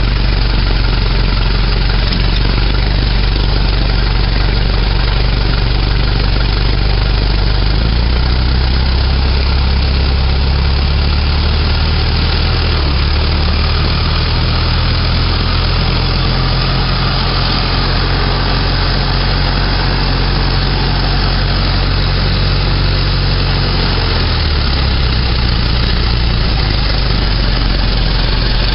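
A Ford Model T's newly manufactured four-cylinder engine running steadily as the car drives along. Its note steps up about a quarter of the way in and drops back down near the end.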